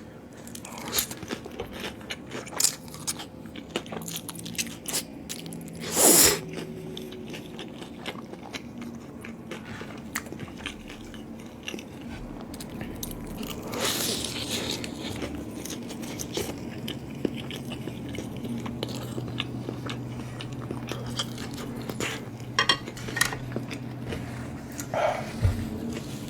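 Close-miked eating: biting into and chewing chicken and noodles, with many small crunches and wet mouth clicks, and a louder bite about six seconds in and again around fourteen seconds.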